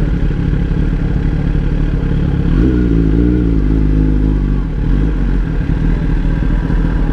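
Motorcycle engine running with a steady low rumble. About two and a half seconds in, a second pitched engine note comes in, wavers, and fades out some two seconds later.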